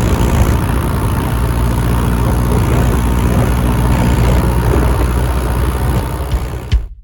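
John Deere tractor's diesel engine running steadily, cut off abruptly near the end.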